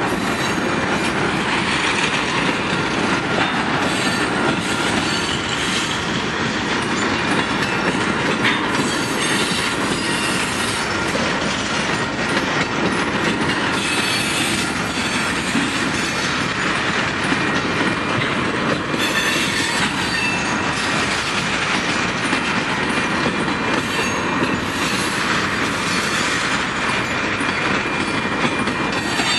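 Freight train of tank cars rolling steadily past: a continuous rumble of steel wheels on rail with clickety-clack over the joints and a thin, high wheel squeal.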